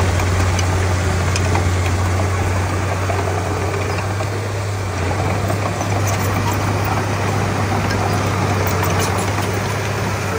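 Diesel engine of a Komatsu D31P crawler bulldozer running steadily with a deep, constant hum, easing off slightly about halfway through.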